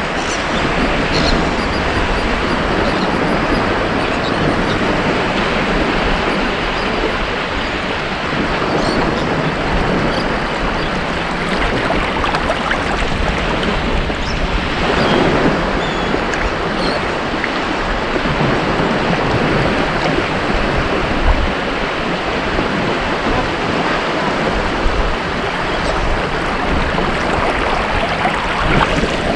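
Ocean waves breaking and washing onto a beach, a steady rush of surf that swells slightly about halfway through.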